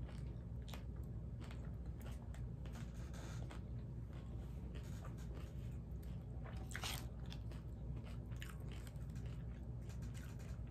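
Close-miked chewing of a crispy ground-beef taco in a hard fried corn shell: scattered crisp crunches, with one louder crackle about seven seconds in, over a steady low hum.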